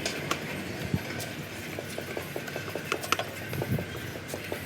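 Irregular metallic clicks and knocks from hand tools working on a truck's manual gearbox.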